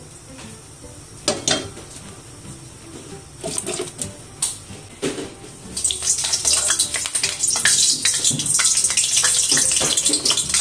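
Eggplant halves going into hot oil in a wok: a few clicks and knocks from the tongs and pan, then loud, steady sizzling from about six seconds in as the eggplant fries.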